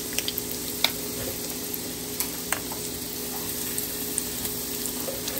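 Breaded catfish pieces frying in butter and oil in a skillet: a steady sizzle with scattered sharp pops and crackles.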